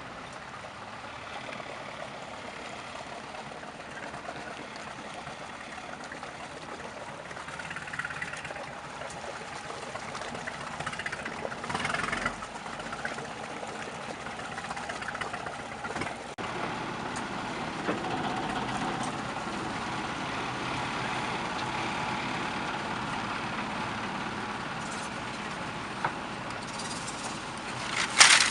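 Fishing boat's engine running steadily, growing louder about a third of the way in, with a short loud burst of noise near the end.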